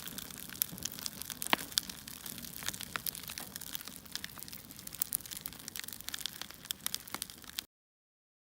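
Crackling fire sound: irregular snaps and pops over a soft hiss, like burning logs, cutting off abruptly near the end.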